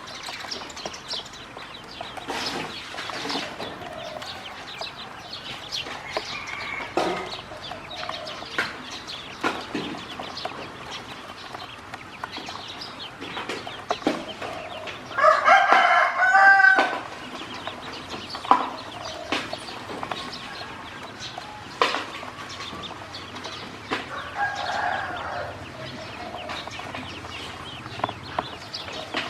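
Farmyard fowl calling: one loud drawn-out call about halfway through and a fainter, shorter call near the end, over frequent small clicks and taps.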